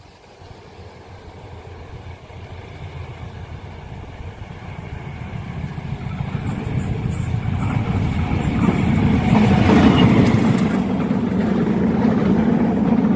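An approaching train, its diesel locomotive's engine rumble growing steadily louder as it nears the level crossing.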